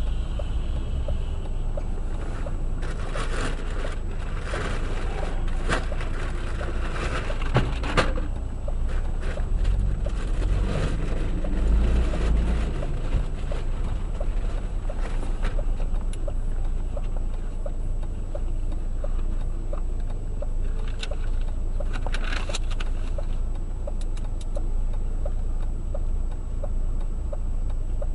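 Road and engine rumble heard from inside a car, as a dashboard camera records it, with a faint regular ticking under it. Knocks and clattering come through the first third, with a sharp bang about eight seconds in, and more clatter a little past the twenty-second mark.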